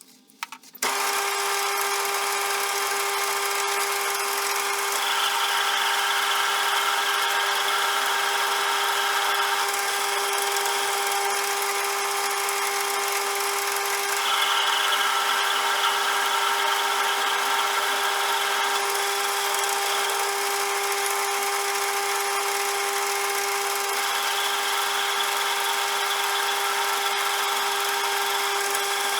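CJM360 benchtop lathe starting up about a second in and running steadily with a constant motor and gear whine. A higher whine is added three times, each lasting several seconds.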